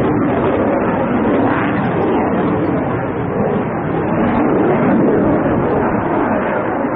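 Dassault Rafale C's twin Snecma M88 turbofan engines making a pass: loud, steady jet noise, easing slightly about three seconds in.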